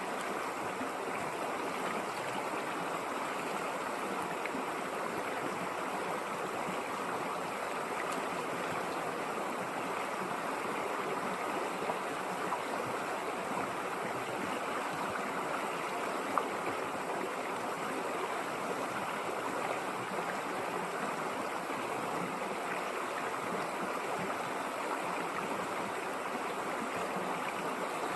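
River water flowing steadily over rocks, an even rushing and splashing that does not change.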